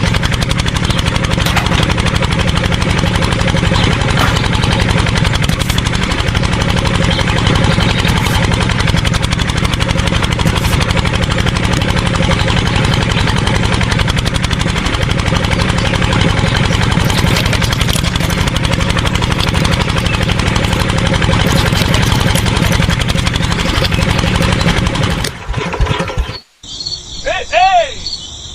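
Mini diesel engine running steadily with a fast even beat. It cuts off abruptly near the end, giving way to crickets chirping and a bird's short falling calls.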